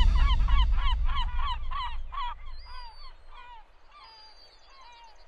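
A quick series of bird calls, several a second, that grow fainter and sparser until only a few scattered calls remain near the end. The last of the music rings out underneath in the first couple of seconds.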